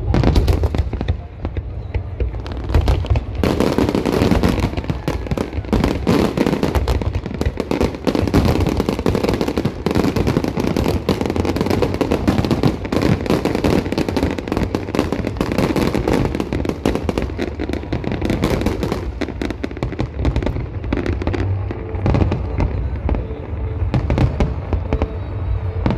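Large fireworks display with aerial shells bursting in rapid, overlapping bangs and crackles, a dense barrage with no let-up.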